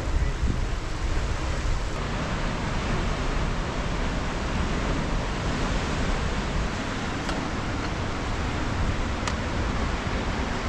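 Ocean surf washing on a rocky shore as a steady, even rush of noise, with a low rumble of wind on the microphone underneath.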